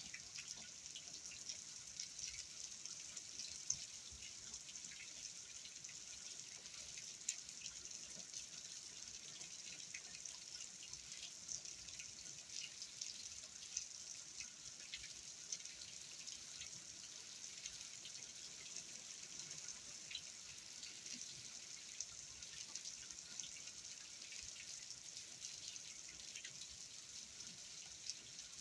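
Rain falling steadily, with many small drips and taps throughout, during Hurricane Ian.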